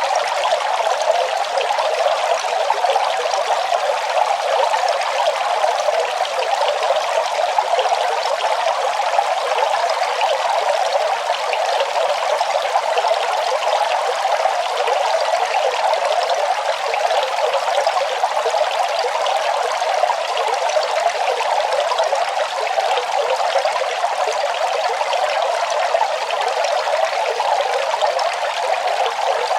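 Running water trickling and splashing steadily without a break, with a bright sound and little low rumble.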